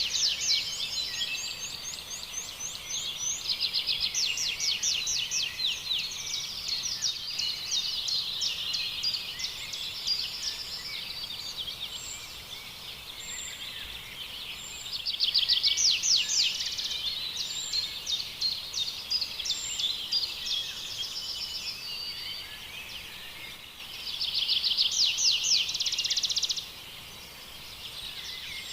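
Several small songbirds singing together, overlapping fast high trills and chirps, with louder trilling bursts about halfway through and again near the end.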